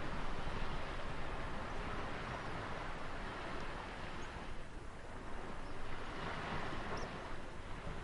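Ocean waves washing on a shore: a steady rush of surf that eases a little about halfway through, then swells again.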